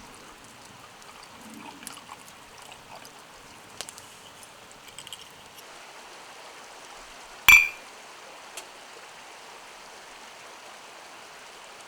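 Steady murmur of a flowing stream, with a few faint ticks. About seven and a half seconds in, one sharp clink, like metal or glass being struck or set down, rings briefly and is the loudest sound.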